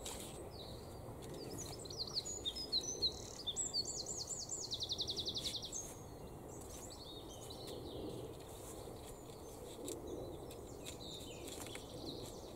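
A songbird singing a quick run of high chirps and whistles, ending in a fast trill about five seconds in, with a few fainter chirps after, over faint background noise.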